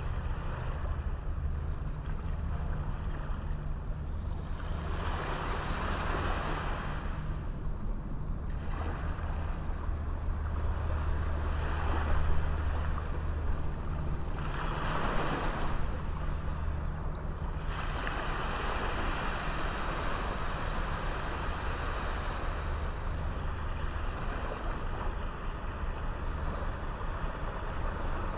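Small waves breaking and washing up on a sandy beach, swelling every few seconds, over a steady low rumble.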